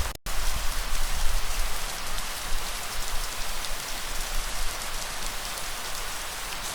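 Steady rain falling on surfaces, with scattered drop ticks over a low rumble. Just after the start the sound cuts out completely for a split second, then resumes.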